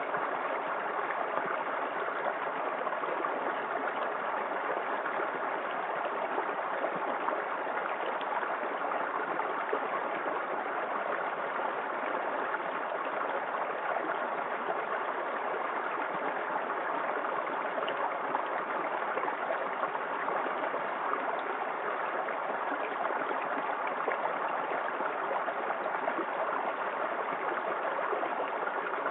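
Small waterfall on a creek, water falling and splashing in a steady, unbroken rush.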